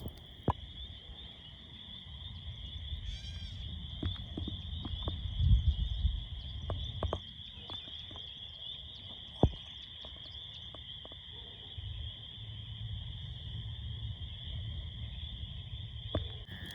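Wood campfire burning down to coals, giving scattered sharp crackles and pops, one louder pop about two-thirds of the way through. Under it runs a low rumble and a steady high-pitched night chorus.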